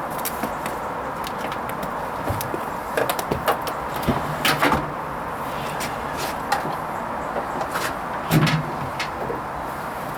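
Hoover Vision HVP16 washing machine on its silks hand-wash programme: the drum motor turns briefly twice over a steady hiss, with irregular sloshing and clicking of water and laundry in the drum.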